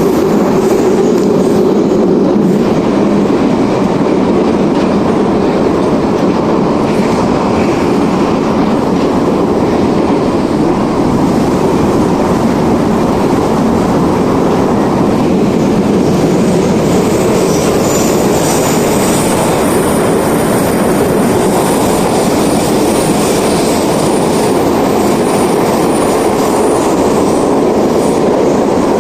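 Soviet-built 81-717 metro car running at speed through a tunnel, heard from inside the car: a loud, steady rumble of wheels and running gear. A high-pitched squeal rises over it a little past halfway and fades again a few seconds later.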